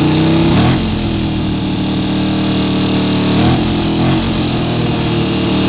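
1979 Yamaha XS750's three-cylinder engine running just after being kick-started, having sat unused for a while. The revs settle about a second in and shift briefly again around three and a half seconds in.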